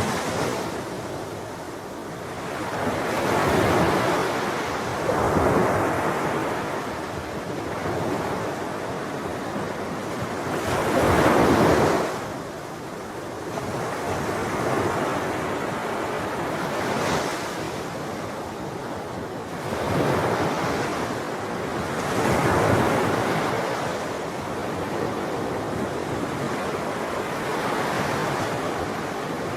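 Ocean waves breaking and washing up on a shore, the surf swelling and ebbing every few seconds with one larger wave crashing about a third of the way through. Wind rumble on the microphone mixes in.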